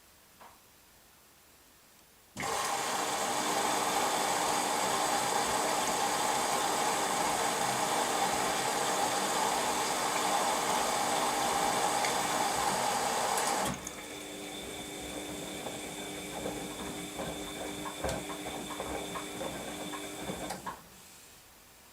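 Washing machine in its wash cycle: it starts abruptly a couple of seconds in with a steady whine and a rush of water, drops to a quieter run with light clicks after about fourteen seconds, and stops shortly before the end.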